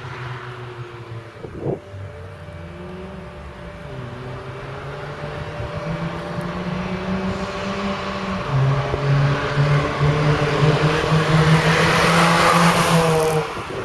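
An engine running with its pitch drifting up and down, growing louder with a rising rush of noise, then cutting off abruptly near the end. A single sharp knock comes early on.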